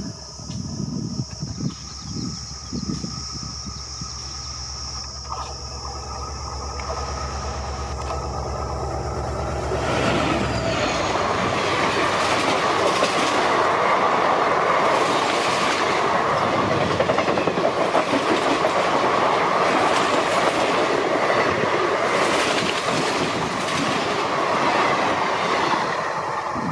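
Indian Railways WDP4D diesel locomotive, with its EMD 16-cylinder two-stroke engine, approaching at speed with a low rumble that builds until it passes about ten seconds in. The express's coaches then run by with a loud rush of wheel noise and clickety-clack over the rail joints, fading near the end as the last coach goes by.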